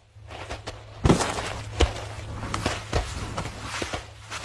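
Heavy hooves scuffing and thudding on dry ground, with scattered knocks, as two bulls shove at each other.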